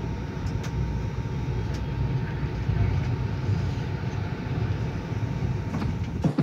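Steady low rumble of an Indian Railways 3rd AC train coach, heard from inside the coach at the platform, with a faint steady whine. It cuts off near the end.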